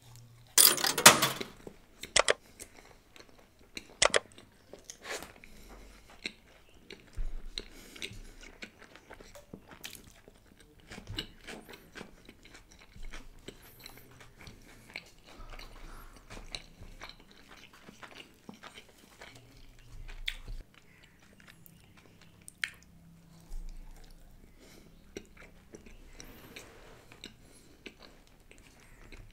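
Close-miked eating of a bite of paratha wrapped around chilli paneer. A loud crunchy bite comes about a second in, followed by steady chewing with small irregular clicks and crunches.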